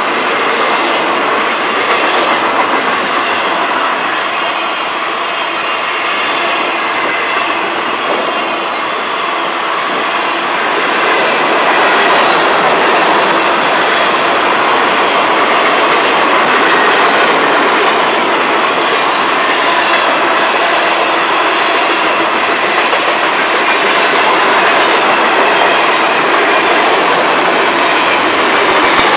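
Freight cars rolling past close by: a steady, loud rumble and rattle of steel wheels on the rails, with a rhythmic clickety-clack as the wheels cross the rail joints.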